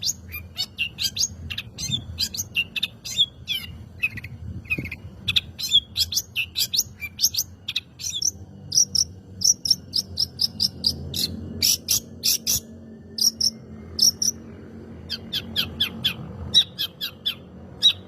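Long-tailed shrike (cendet) singing a fast, chattering song of short sharp notes, several a second, broken by brief pauses.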